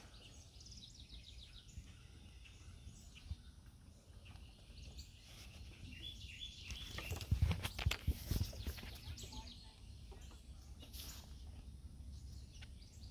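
Outdoor birdsong in the background, including a rapid high trill near the start and again about nine seconds in. A louder burst of rustling and knocks comes about seven to eight seconds in.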